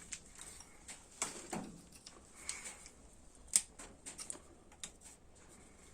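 Quiet, scattered clicks and clinks of hand tools, a wrench and socket being fitted to engine mounting bolts, with one sharper metallic click about three and a half seconds in.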